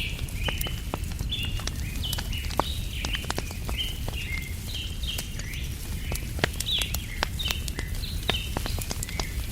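Wood fire crackling with scattered sharp pops, under a steady low rumble. Many short, high bird chirps repeat all through, like a small flock calling.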